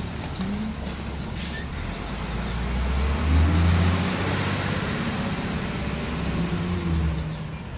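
Garbage truck's diesel engine running, rising in level around three to four seconds in and then settling, with a broad hissing noise over the low rumble.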